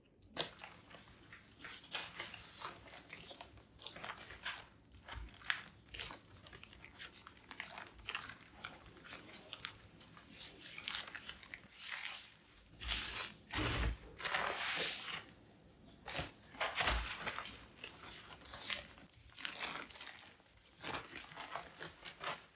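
Close-up crinkling, tearing and crunching sounds from something being handled, with many short sharp clicks and a few louder bursts in the middle.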